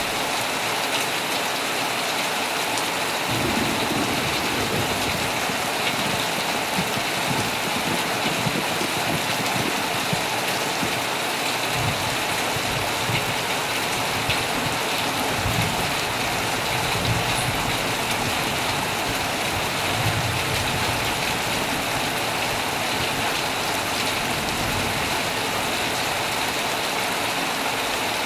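Heavy rain falling steadily on a tent, a dense even hiss with no let-up. Low rumbles of thunder come and go in the middle stretch.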